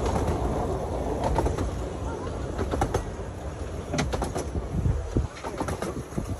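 Miniature railway carriage running slowly along the track: a steady low rumble with scattered clicks and knocks from the wheels and couplings.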